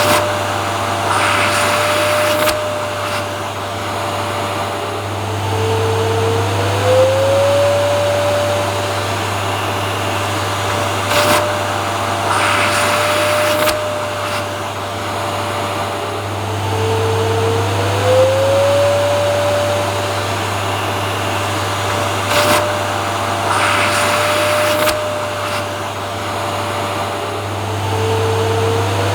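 Vacuum cleaner running continuously with a steady low hum and a motor whine. About every eleven seconds the whine drops in pitch, then slides back up, alongside a brief burst of louder hiss, as the same stretch repeats.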